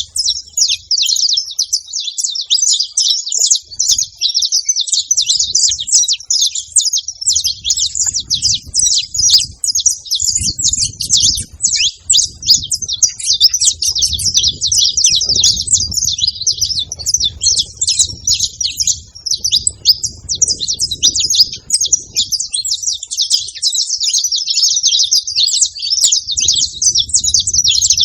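A flock of saffron finches chattering continuously in dense, overlapping high chirps. A faint low rumble comes and goes underneath.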